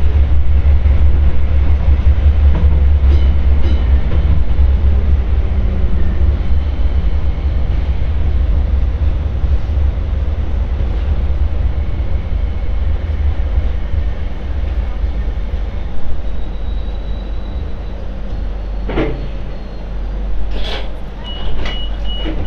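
MTR Light Rail train running: a steady, loud low rumble of the railcar on the track that eases off over the last third as the train slows. There are a few short clicks, and a high, rapid beeping starts about a second before the end.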